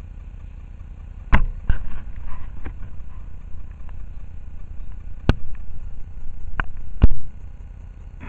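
Low, steady rumble of a freight train running in the distance, broken by about five sharp clicks or knocks, the loudest near the end.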